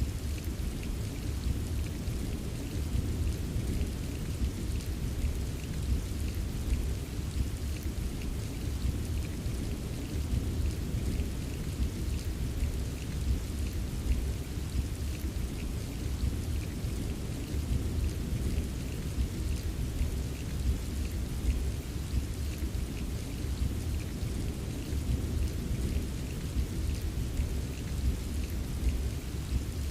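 Steady rain ambience: an even, unbroken wash with a constant low rumble and faint scattered drop ticks.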